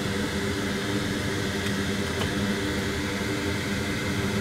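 Bench fume extractor fan running with a steady whir and a low, even hum.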